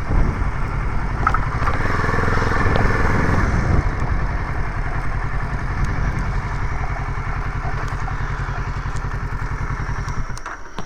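Vehicle engine running with a steady low pulsing, then shut off abruptly about ten seconds in.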